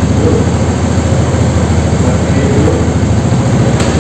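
Honda Supra motorcycle's single-cylinder four-stroke engine running steadily at idle.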